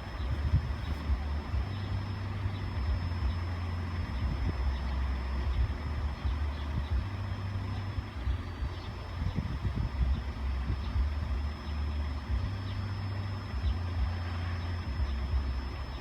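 Low, uneven rumble of road vehicles idling, queued at the lowered level-crossing barriers.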